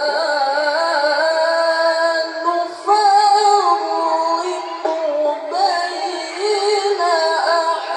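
A young reciter's high voice chanting Quran recitation in melodic tilawah style, with long held notes that slide and turn. One phrase breaks off and a louder one begins about three seconds in.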